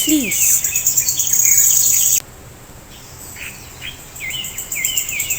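Birds chirping in short repeated calls over a high, rapid insect-like trill; the trill cuts off suddenly about two seconds in and comes back near the end.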